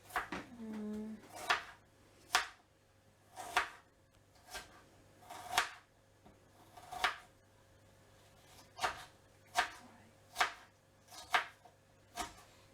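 Kitchen knife chopping food on a cutting board, slow, uneven single strokes about once a second.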